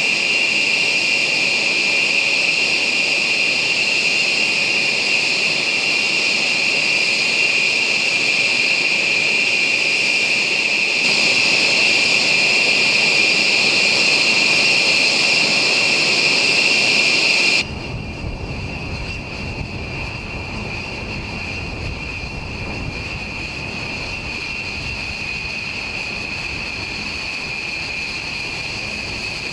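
Jet engines of a B-1 bomber running with a steady high whine over a rush of noise. About two-thirds of the way through it cuts abruptly to a quieter, deeper jet rumble.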